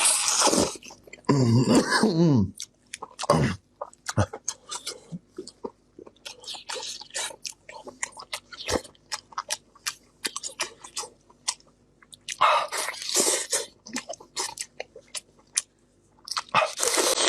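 Close-miked chewing of Sichuan-pepper chicken: rapid wet mouth clicks and smacks, with a few louder, noisier bites about two-thirds of the way through and near the end.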